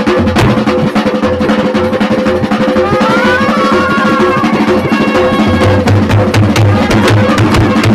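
Traditional Chhattisgarhi baaja drum band playing a fast, even rhythm over a steady droning note, loud throughout. A short wavering melodic line rises and falls over it about three to four and a half seconds in.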